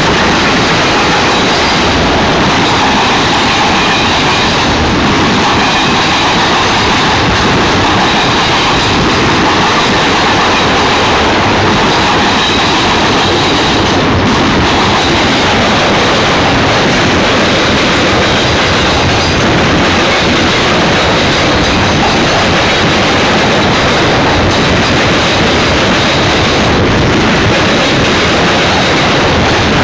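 Union Pacific freight cars rolling past at close range: a loud, steady rumble and clatter of steel wheels on the rails, with a faint high wheel squeal held throughout.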